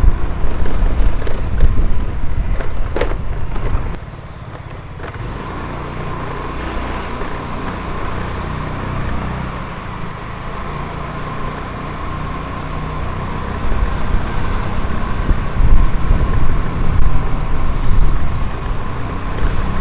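Motorcycle engine running while riding, with wind buffeting the microphone. The wind drops about four seconds in, leaving the engine's low sound, and it grows louder again after the middle.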